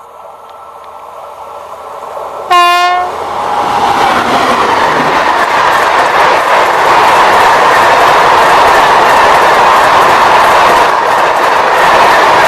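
Approaching Tejas Express train sounds a short horn blast of about half a second. It then passes close by with loud, steady wheel-and-rail noise and the clickety-clack of wheels running over rail joints.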